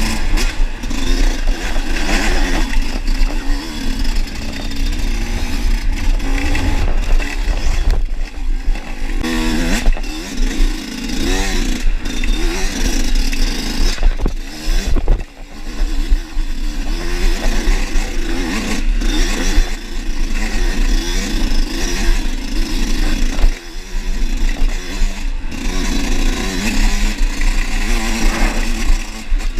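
Dirt bike engine heard from the rider's own bike, revving up and down continuously as it is ridden over a rough trail, with a heavy low rumble of wind on the microphone and rattling from the bike.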